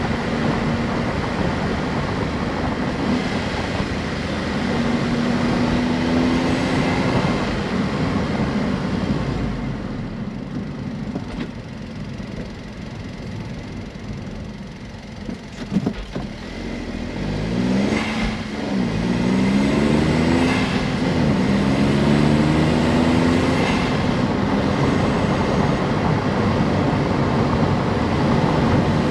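Honda S660's small turbocharged three-cylinder engine running while driving: steady cruising, then it eases off and goes quieter for several seconds, broken by a single knock. It then accelerates hard through several gear changes, the pitch rising and dropping back at each shift, before settling into a steady cruise.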